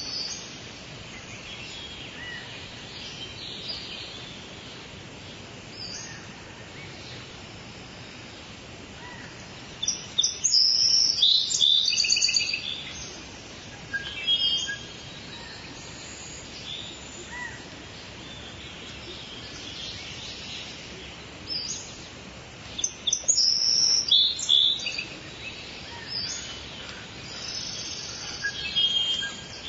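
Steady soft rain with songbirds chirping over it, the calls loudest and busiest about a third of the way in and again past two-thirds.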